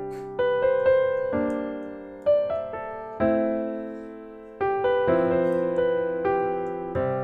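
Solo piano playing a slow, gentle piece: chords and single notes struck about once a second, each ringing and fading before the next.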